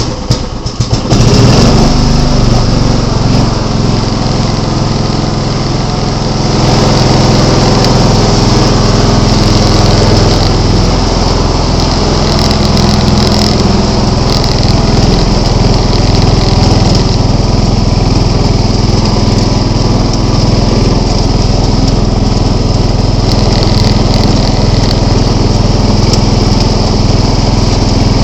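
John Deere 265 lawn tractor engine running just after starting. It is uneven for the first second or two, then runs steadily, a little louder from about six and a half seconds in.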